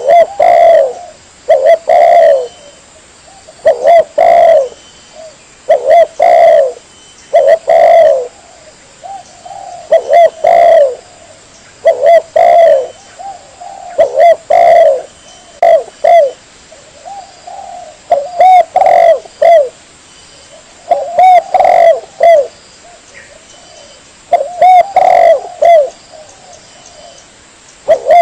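Spotted dove (tekukur) cooing loudly and repeatedly, a short phrase of a few coos about every two seconds, as a lure call.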